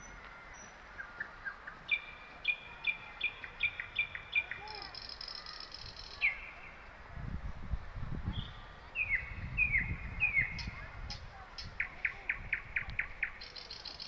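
Forest birds calling and singing: a run of short repeated chirps, falling notes, a fast buzzy trill heard twice, and a quick series of clicky notes near the end. A low rumble sits under the birds in the middle.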